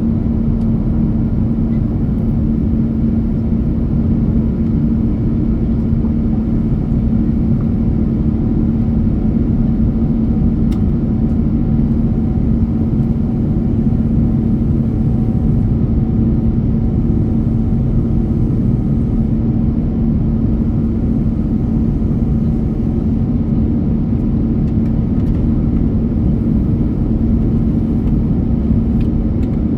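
Jet airliner cabin noise: a steady engine and airflow rumble with a constant low hum.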